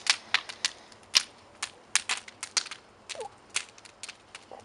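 Wood fire crackling in a stove: irregular sharp pops and snaps of burning firewood, the loudest about a second in.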